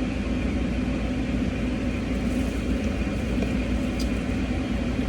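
Steady low hum of a car running, heard from inside the cabin, with one faint click about four seconds in.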